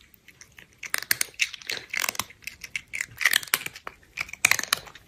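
Irregular clusters of quick, sharp clicks and crunches, several a second, stopping and starting.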